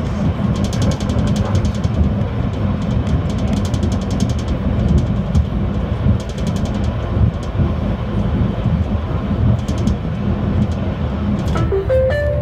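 Renfe Alvia passenger train running at speed: a steady rumble with regular rhythmic ticking, under electronic background music. A few held tones come in near the end.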